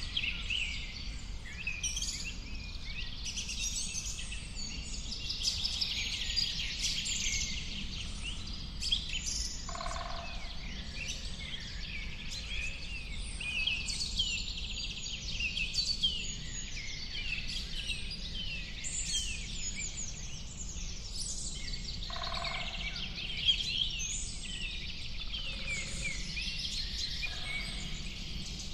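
Many birds chirping and singing at once, a dense chorus of short high calls that never lets up, with a lower call standing out twice. A steady low rumble runs beneath it.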